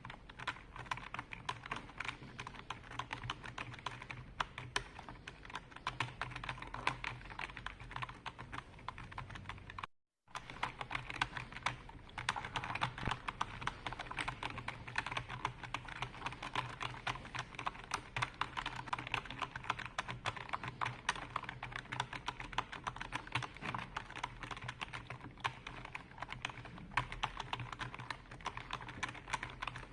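Continuous fast typing on a computer keyboard, a dense run of keystroke clicks, broken once by a sudden split-second drop to silence about ten seconds in.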